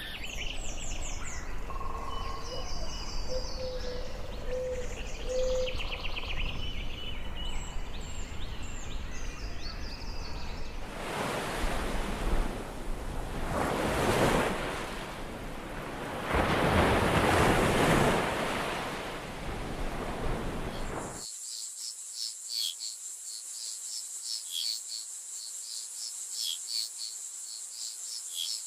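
Rainforest ambience in three parts: varied bird calls and chirps for the first ten seconds or so; then a rushing noise that swells loudly twice; then, after a sudden cut about three-quarters through, a steady, high, pulsing insect trill.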